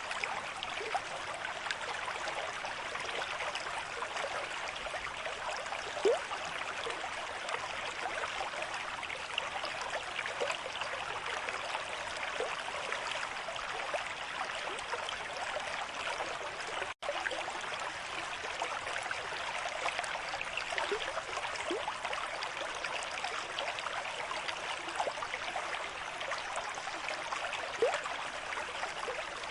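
River stream at moderate flow: steady rushing water with a few louder gurgles, one about six seconds in and another near the end. The sound drops out for an instant about midway.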